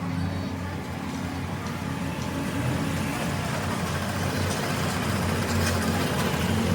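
A motor running steadily: a low, engine-like hum that grows slowly louder, with a few faint clicks.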